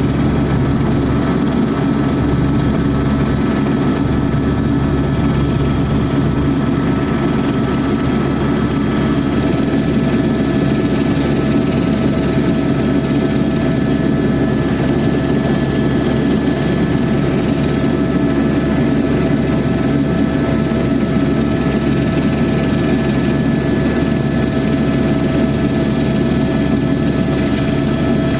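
Tour helicopter in steady cruise, heard from inside the cabin: a loud, even rotor and turbine drone with a constant high whine over it, unchanging throughout.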